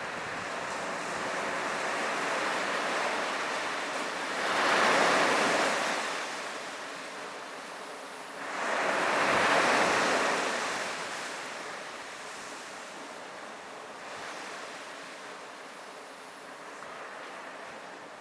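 Sea waves breaking on the beach and washing up the shore. Two louder waves crash about a quarter and a half of the way through, and the surf settles to a softer wash by the end. Light wind on the microphone.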